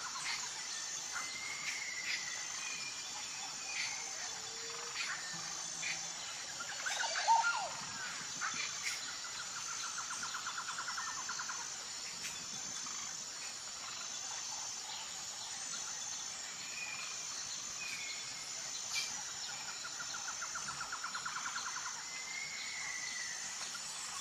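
Outdoor nature ambience: a steady high insect chorus with short bird chirps. Two rapid trills come about ten and twenty seconds in, and one louder call about seven seconds in.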